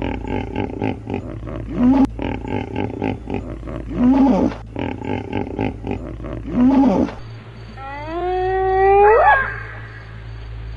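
Animal calls: a rhythmic, pulsing run of calls with a louder call about every two and a half seconds. Then, after a cut, comes one long call that rises in pitch.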